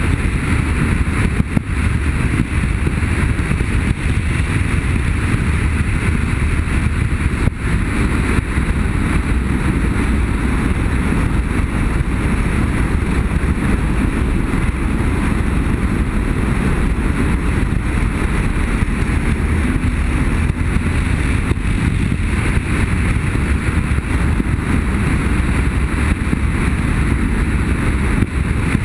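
Motorcycle riding at a steady road speed: the engine runs evenly under wind rushing over the microphone.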